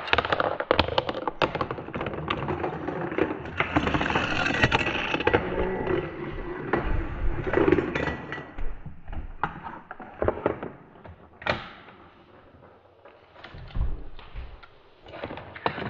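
Toy vehicles rattling and clattering down a plastic Fisher-Price Little People race track, with a dense run of clicks and knocks for the first nine seconds or so, then scattered clicks and taps as things settle.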